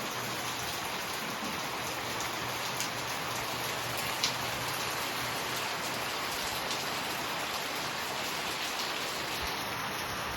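Steady rainfall, drops pattering on surfaces, with one sharper drop tick about four seconds in.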